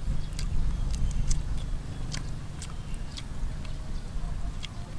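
Close-up chewing and crunching of cooked frog and its small bones: sharp, irregular crackles over a steady low rumble.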